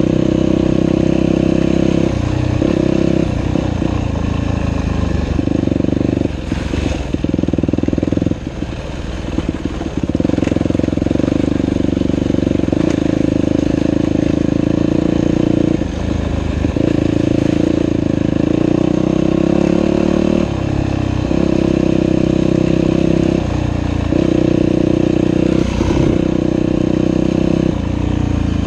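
Dirt bike engine running hard, the revs rising and falling as the throttle is opened and closed, with a longer easing off about 7 to 10 seconds in.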